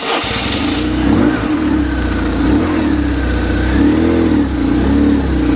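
Motorcycle-and-sidecar engine running and being revved, its pitch rising and falling several times.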